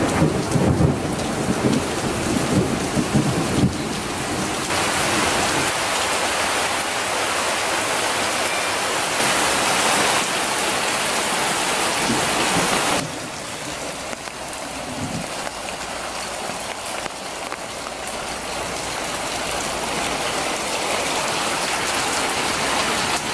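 Heavy tropical rain pouring down steadily, with an uneven low rumbling in the first four seconds. The rain noise drops a little in loudness about thirteen seconds in.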